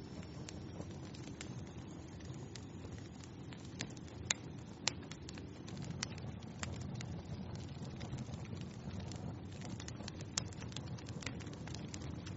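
Wood fire crackling in a fireplace: a steady low rush of flame with frequent small pops and snaps, two louder pops a little over four seconds in and another near the ten-second mark.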